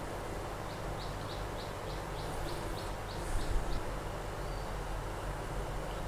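A bird chirping a quick run of about ten short, high notes over a steady low hum and hiss. A brief soft bump a little past halfway, as food is set down on a plate with a serving spoon.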